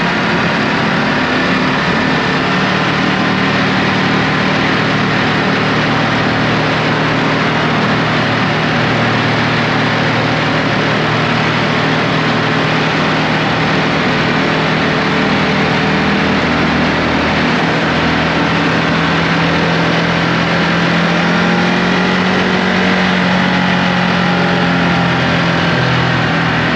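Ducati Multistrada V2S's V-twin engine running at a steady riding pace under heavy wind and road rush. Its pitch rises a little about three-quarters of the way through, then eases back.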